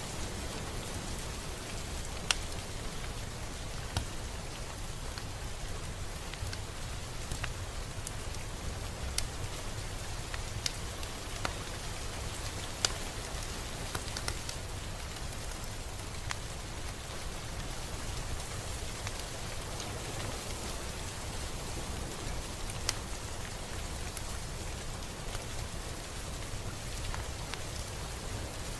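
Steady gentle rain falling, a continuous hiss with scattered louder single drops ticking on a surface every second or two.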